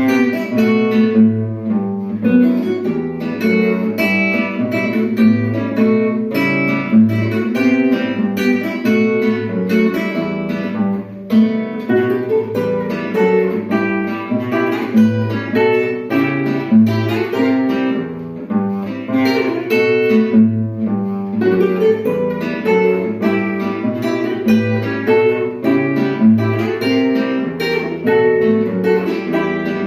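Two guitars playing a duet, plucked melody and chords with a steady bass line.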